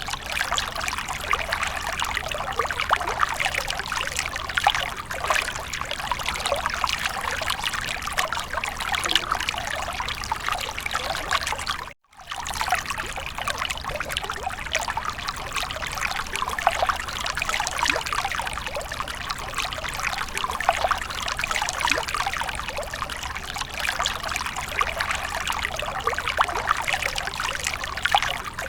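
Water fountain splashing and trickling steadily, cutting out for a moment about twelve seconds in.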